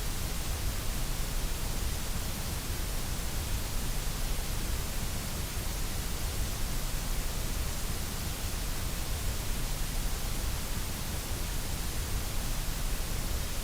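Steady electronically generated noise: an even, unchanging hiss with a low rumble underneath.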